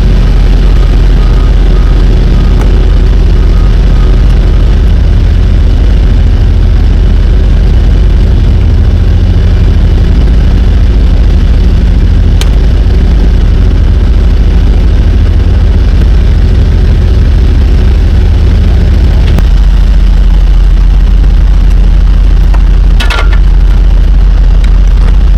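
Semi-truck diesel engine running, loud and steady, with its low note shifting about three quarters of the way through.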